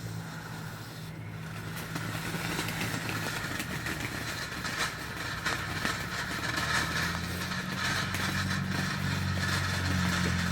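A ground fountain firework spraying sparks, hissing and crackling and growing louder from about two seconds in, over a steady low hum.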